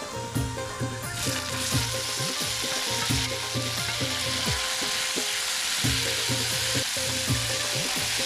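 Caramelised onions and chopped tomatoes sizzling in hot oil in a cooking pot while being stirred; the sizzle grows louder about a second in.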